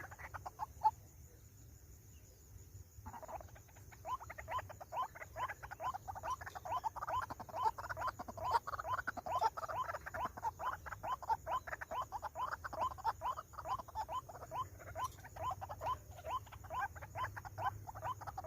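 White-breasted waterhen calling: a few scattered notes, then, from about three seconds in, a rapid run of short croaking notes, several a second.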